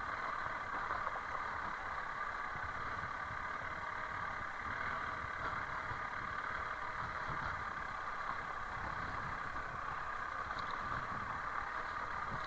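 Honda CRF300L Rally's single-cylinder engine running steadily at an even pace.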